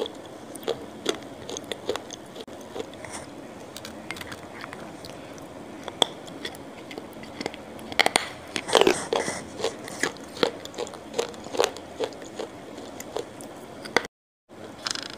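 A person biting and chewing food right at a clip-on microphone, heard as a run of short sharp mouth clicks and smacks. The clicks are busiest and loudest around the middle. The sound cuts out completely for a moment near the end.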